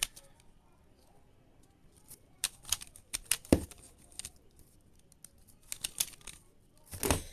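Plastic twisty puzzle being turned by hand: irregular sharp clicks and clacks in short clusters, with a longer rattle of turns near the end.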